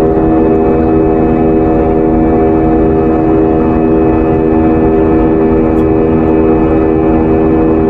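Airliner cabin noise in cruise: the steady drone of the engines and rushing air, loud and unchanging, with a constant low hum of several tones.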